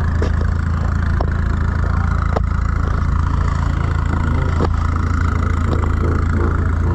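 A car engine idling with a steady low drone, with a few light clicks over it.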